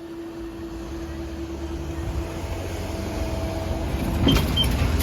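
Road vehicles moving off over the level crossing as the barriers lift: a low vehicle rumble grows louder, with clunks about four seconds in, while a steady hum fades out.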